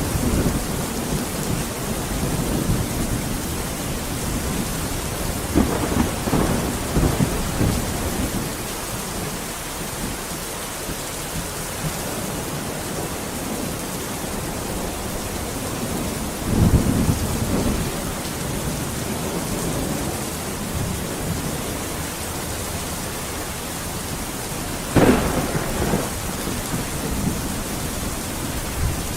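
Steady heavy rain with thunder rumbling several times, the sharpest clap near the end.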